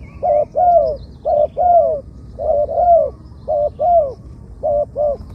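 Spotted dove cooing over and over: paired coos, a short note followed by a longer one that curves down at the end, repeated about five times.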